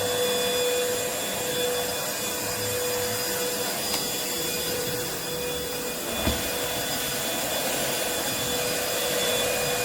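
Cordless stick vacuum cleaner running steadily on carpeted stairs, a constant motor whine over airflow noise. There is one knock about six seconds in.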